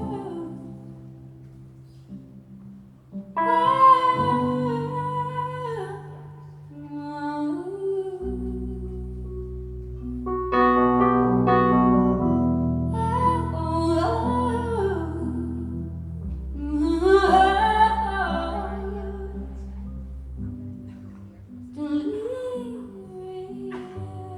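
Live band music: a woman singing long wordless held phrases over sustained low keyboard and bass chords that change every few seconds, in a large hall.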